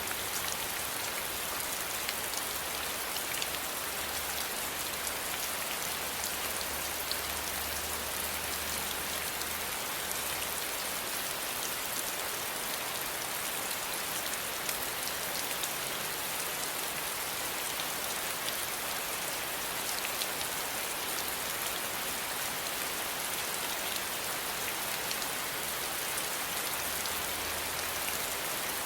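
Steady rain falling on a surface, an even hiss with many fine drop patters throughout.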